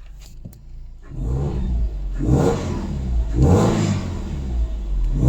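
Subaru EJ20Y turbocharged flat-four engine revved in three blips, rising and falling in pitch, after a quiet first second.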